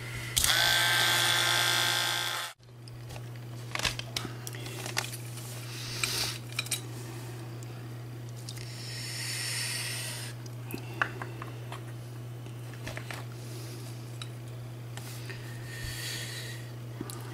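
A small electric drill running in short bursts as it drills out the rivets holding a die-cast toy car together: a loud burst of about two seconds near the start that stops abruptly, then two shorter, quieter bursts later. Light clicks of small metal parts being handled come in between, over a steady low hum.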